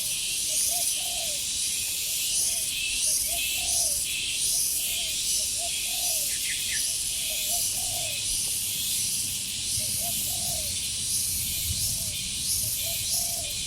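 Spotted dove cooing in short, repeated phrases of a few low notes every couple of seconds, over a loud, pulsing drone of insects.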